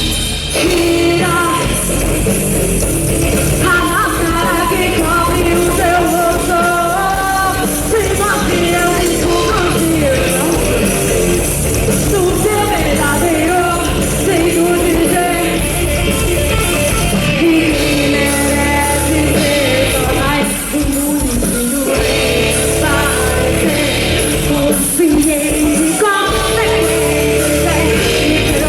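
Rock band playing live with a lead singer over electric guitar, bass and drums, amplified through a festival PA.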